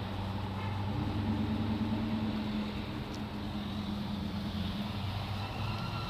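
Classic muscle car engine running steadily at low speed, a low even tone with a slight rise in pitch about a second in.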